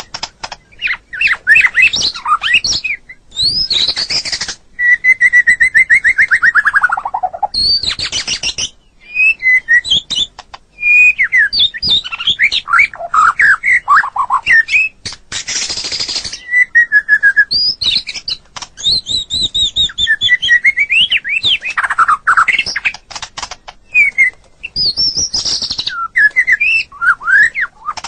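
White-rumped shama (murai batu) singing a long, varied song of loud whistles and trills broken by harsh rasping notes, with a rapid trill that falls steadily in pitch about five seconds in.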